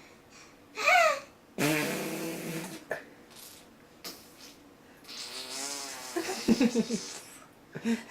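A small boy making silly vocal noises: a short squeal about a second in, then a long fart-like buzzing sound. A second buzzing noise follows later, breaking into choppy little vocal bursts near the end.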